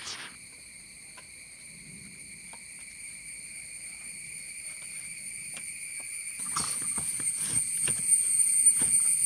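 Cicadas droning in a steady high pitch, swelling louder over the last few seconds in the rising-and-falling wave typical of the rainy season. Light knocks and rustling come in near the end.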